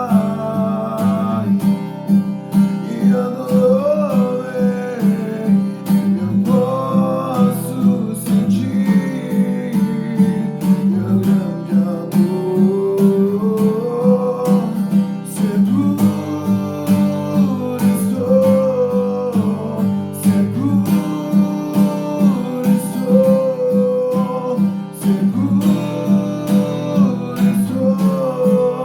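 Acoustic guitar music, strummed steadily, with a gliding melody line over the chords.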